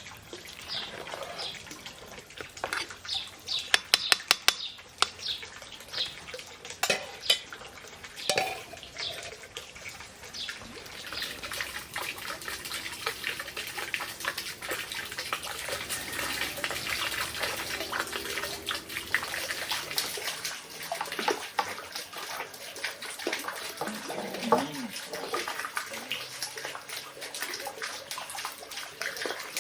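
Running water in a steady rush, with a few sharp clinks and knocks about four seconds in.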